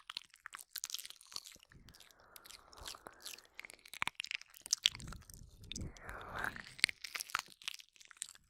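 Close-up wet mouth sounds into a binaural microphone: ear licking and kissing, made up of many quick sticky clicks and smacks at an uneven pace, with a soft breathy stretch about two seconds in and a longer one about five seconds in.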